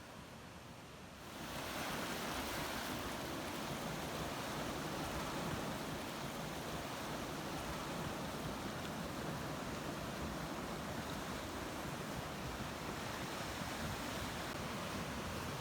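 Ocean surf: a steady wash of wave noise that swells in a little over a second in and then holds level.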